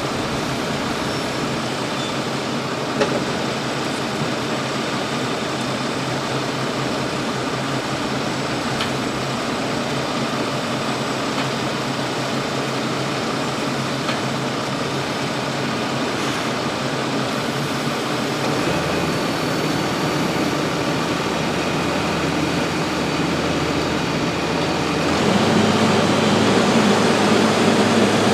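Diesel engines of heavy farm machinery running steadily, with a short click about three seconds in. The engine note shifts about two-thirds of the way through and grows louder near the end as a machine works harder or comes closer.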